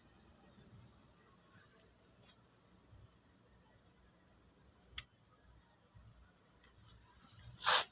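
Toyota Sienna power door giving a single sharp click about five seconds in and a louder short clunk near the end, typical of the door latching shut. Steady insect chirring underneath.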